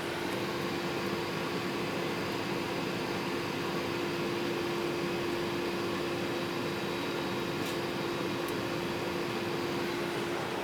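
Steady cabin noise inside a Boeing 777-300ER in flight: an even rush of airflow and engine sound with a constant low hum.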